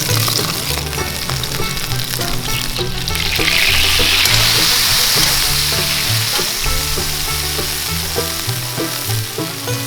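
Hamburger patties sizzling as they fry in a pan, the sizzle swelling louder about three seconds in.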